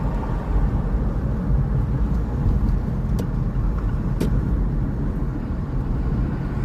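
Steady low rumble of a car driving, heard from inside the cabin, with two brief clicks about three and four seconds in.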